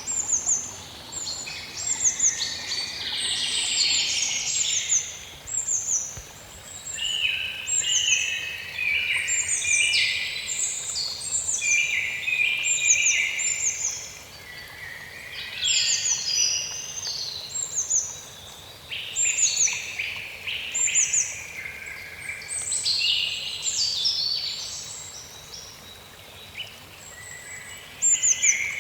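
Several songbirds singing at once, with many quick downward-sweeping chirps and longer warbled phrases overlapping in irregular bursts, over a faint steady background hiss.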